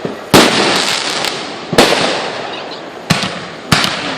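Fireworks going off: four sharp bangs one to one and a half seconds apart, each trailing off in a fading crackle.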